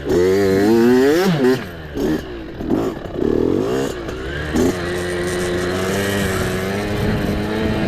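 Mini dirt bike engine revving up hard about a second in, rising and falling with the throttle, then running at a steady speed through the second half.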